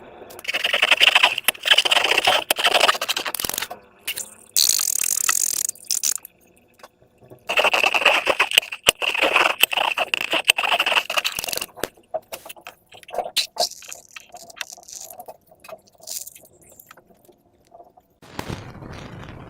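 Crackly scraping and rustling from handling slime and balloons, in two bursts of a few seconds each with a short high hiss between them, then scattered light clicks.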